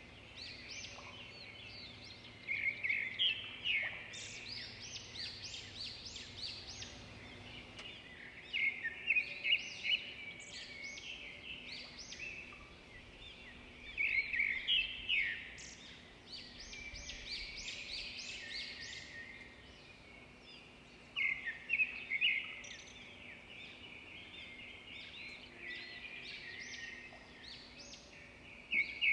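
Birds chirping and singing, with louder bouts of rapid song about every six seconds and quieter chirps between. A faint steady hum sits underneath.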